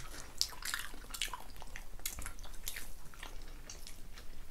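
Chewing and lip-smacking of people eating rice and soft stewed pork tail: an irregular string of short, wet mouth clicks.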